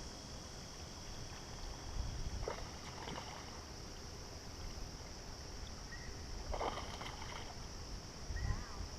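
Outdoor ambience from a kayak on a river: wind rumbling on the microphone under a steady high-pitched insect drone, with a few short splashy noises, about two and a half seconds in and again near seven seconds, as a hooked smallmouth bass is brought in.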